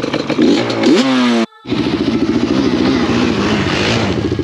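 Quad bike engines running: one revs up in a quick rising climb, the sound drops out completely for a split second about a second and a half in, then an engine runs on steadily under way.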